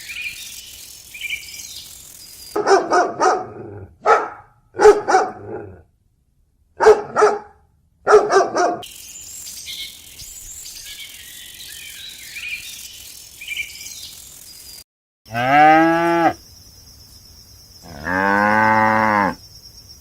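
Small birds chirping, broken by a run of short, sharp animal calls. Near the end a cow moos twice, each moo a long call that rises and falls in pitch.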